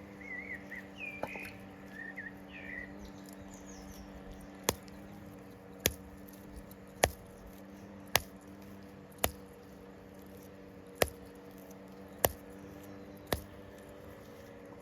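A bird chirps a few short, wavy notes. Then come eight sharp knocks, about one a second, with a faint steady hum underneath.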